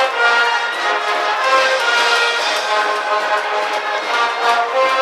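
School brass band playing a cheering tune for a baseball team: a melody of held brass notes that change every half second or so.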